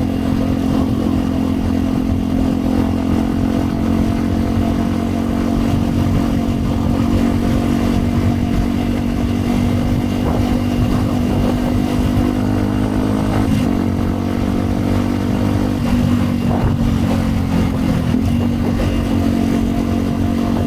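A 2010 Yamaha WR 125 X's single-cylinder four-stroke engine running through an aftermarket Yoshimura exhaust while riding. The engine note holds fairly steady and climbs slowly, then breaks briefly about two-thirds of the way through and dips again near the end, over a haze of road and wind noise.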